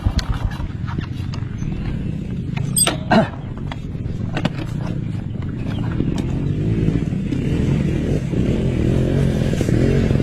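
Off-road motorcycle engine running while riding, with a brief clatter of knocks about three seconds in and the engine note rising and falling in the second half.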